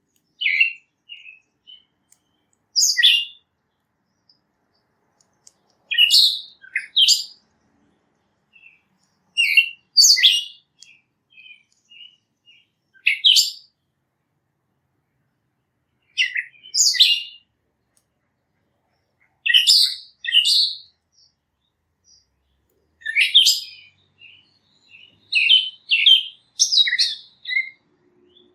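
Small songbird chirping in short, high-pitched phrases of a few quick notes, repeated about every three seconds.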